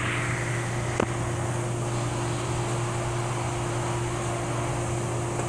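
Steady mechanical hum of a running fan-type machine, with one light click about a second in.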